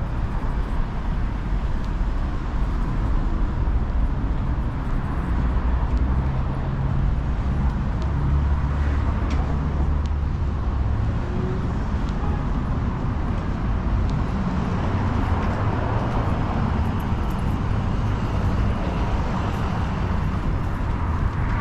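City street traffic: vehicle engines running with a steady low rumble and road noise.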